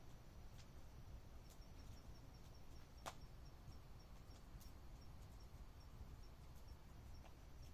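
Near silence: a campfire crackling now and then, its sharpest pop about three seconds in, under a faint, steady series of high cricket chirps.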